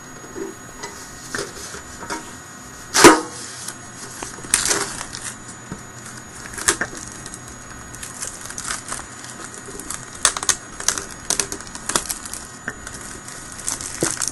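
Handling of a metal trading-card collector's tin and its contents: scattered clicks and rustles, with one sharp knock about three seconds in.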